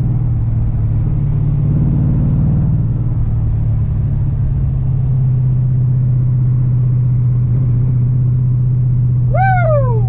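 LS V8 engine of an LS-swapped BMW E46, heard from inside the car, running as a steady low drone while cruising at an even speed. A short falling high tone is heard near the end.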